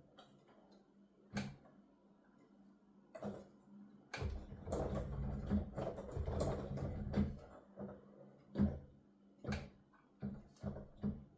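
Digital piano keys played with the sound going only to headphones: the keys knock and thud unevenly. A denser run of key thumps with a low rumble starts about four seconds in and lasts about three seconds. A faint steady electrical hum lies underneath.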